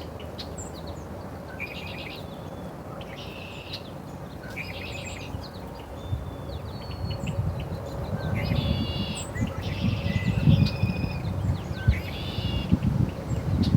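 Small songbirds chirping and twittering in quick repeated bursts. A low rumbling noise grows louder about halfway through, and a faint steady hum runs underneath.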